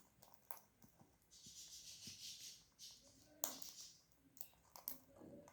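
Faint clicks and crunches of an Alexandrine parakeet eating, with a soft hissing rustle for about a second and a half and a sharper click about three seconds in.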